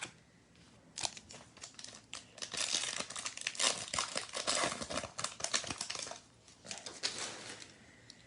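Plastic-foil trading card pack wrapper being torn open and crinkled by hand, a dense crackling rustle that is loudest in the middle and dies down near the end.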